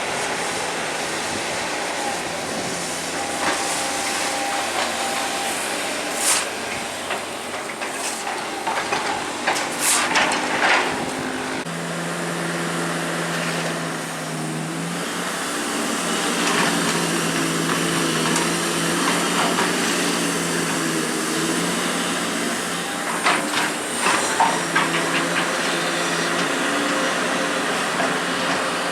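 Hydraulic excavator's diesel engine running under working load, its note rising and shifting from about halfway through as the arm moves. Scattered sharp knocks and scrapes from the bucket striking rock and debris come a few seconds in and again near the end.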